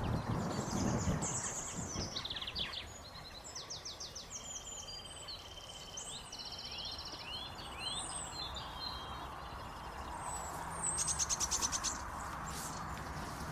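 Small birds singing from a hedgerow: repeated chirps and trills, one long even trill in the middle and a louder fast trill near the end. A few low thumps in the first couple of seconds.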